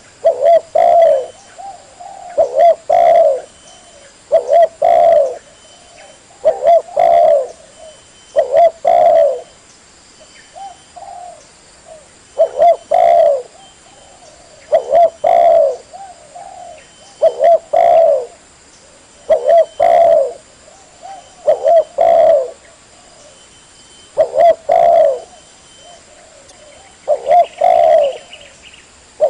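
Spotted dove cooing over and over, each phrase a few quick notes, repeating about every two seconds with a short lull about a third of the way through.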